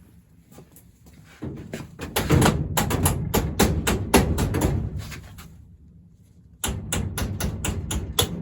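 Rapid knocking, several sharp knocks a second, in two runs with a short pause between them about five seconds in.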